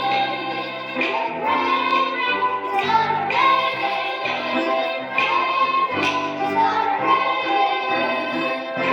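Children singing a song with instrumental accompaniment, held notes changing every second or so over a bass line.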